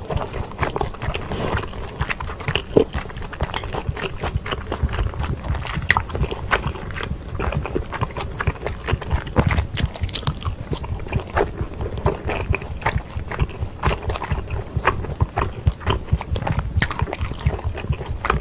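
Close-miked chewing of spicy kimchi stir-fried wide Chinese glass noodles, full of quick wet mouth clicks and smacks.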